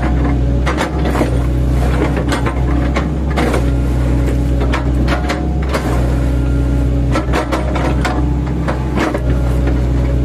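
Mini excavator's diesel engine running steadily under load, with repeated irregular crunching and cracking knocks as its bucket, fitted with chipping blades, chops oil palm trunks.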